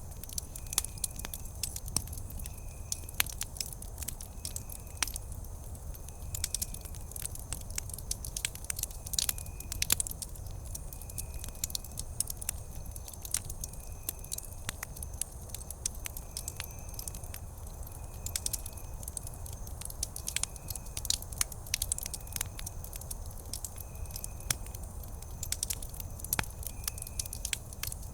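Wood campfire crackling, with frequent irregular sharp pops over a low, steady rumble. A faint short high chirp recurs every second or so.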